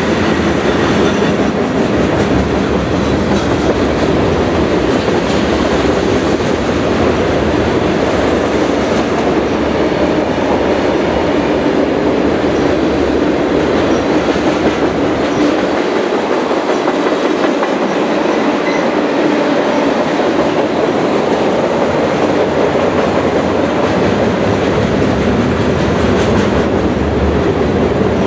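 Train rolling past close by: a loud, steady noise of cars running on the rails that lasts for the whole stretch, with the deep rumble easing for a few seconds past the middle.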